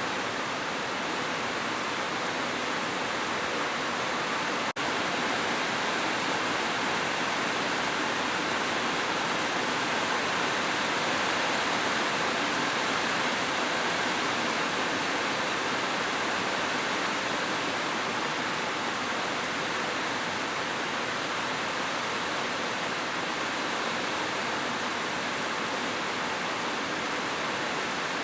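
Heavy rain falling steadily, an even rushing hiss with one momentary drop in level about five seconds in.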